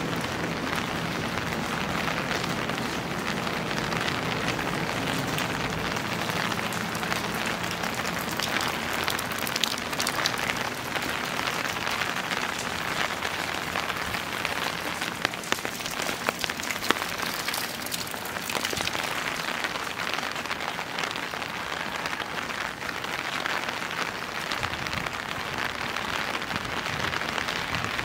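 Steady rain falling, with many close drops ticking sharply on top of the even hiss. A low hum in the first few seconds fades out.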